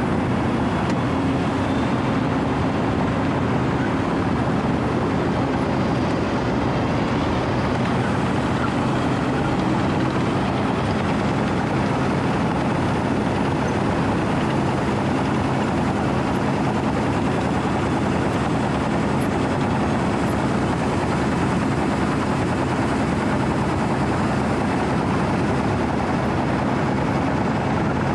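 Diesel engine of a Wirtgen W 120 CFi cold milling machine running steadily, a constant drone with an even pitch.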